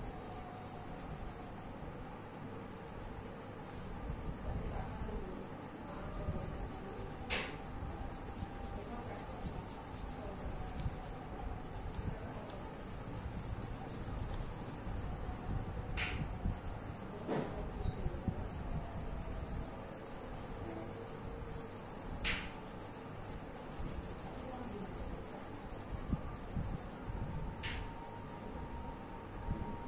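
Colouring strokes rubbing on paper in a steady scratchy stream, with a few sharp clicks along the way.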